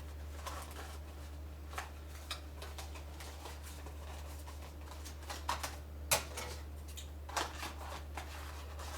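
Scattered clicks, taps and scrapes of a small cardboard puzzle box being handled and pried at, hard to get open, the sharpest click about six seconds in, over a steady low hum.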